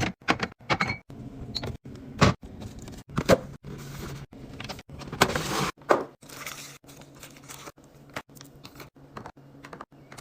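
Containers and packaging being handled and set down: a quick series of clicks, knocks and short rustles over a faint low hum, broken by frequent abrupt cuts.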